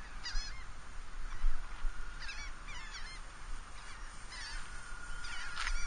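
Birds calling in short repeated clusters of pitched calls, about six bursts, over a low rumble. From about two seconds in, a faint steady whine comes in, likely the electric motors of the Dynam Sky Bus RC plane in flight.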